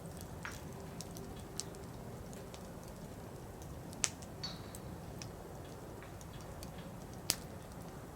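Wood fire crackling: a steady low rumble of burning firewood with scattered small ticks. Two sharp, loud pops stand out, one about four seconds in and one near the end.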